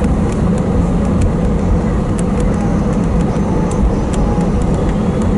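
Airbus A320 cabin noise while taxiing: a steady engine-and-airframe rumble with a low hum and a fainter higher tone, and a few faint scattered clicks.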